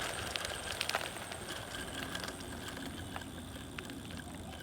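Swagtron EB-5 electric bike slowing down under its stock rear brake, with a rolling noise that slowly fades and a few light clicks. The stock brakes are weak, and the bike takes a long time to stop.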